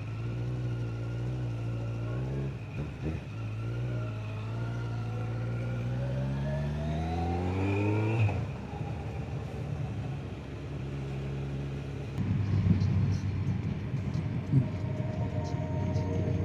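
Motorcycle engine pulling away: its pitch climbs steadily under acceleration, then drops suddenly at a gear change about eight seconds in. After that it runs lower, mixed with rough wind noise on the microphone.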